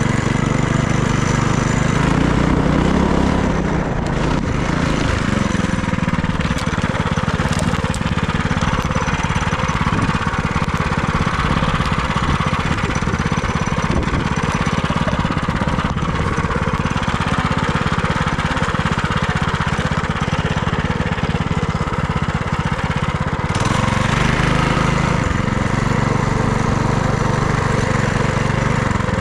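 FRP GMB100 minibike's small single-cylinder engine running as the bike is ridden. The engine note is clear at first. From about four seconds in, a steady rush of noise covers it, and it comes through plainly again near the end.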